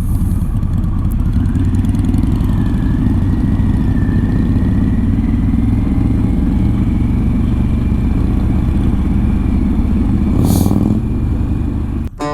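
Motorcycle engine running at steady cruising speed, with wind rush over the helmet-mounted microphone; the sound cuts off abruptly near the end.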